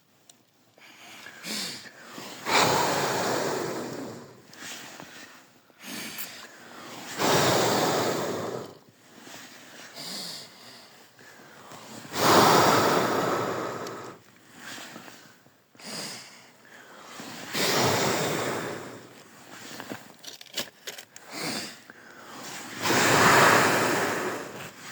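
A man blowing hard into a rocket mass heater's firebox onto smouldering wood splints, five long breaths about five seconds apart with quick inhales between, to build the glow and start the draft in a cold start.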